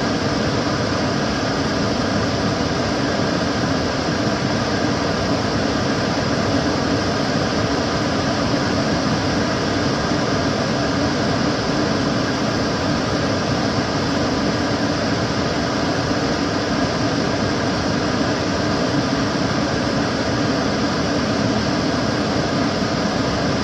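Kitchen cooker hood extractor fan running steadily: a constant rush of moving air with a faint steady hum in it.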